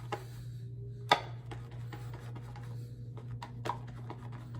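Synthetic shaving brush whisking shaving-cream lather in a shave bowl: soft, quick clicks and scrapes, with a sharp knock about a second in and a smaller one near the end.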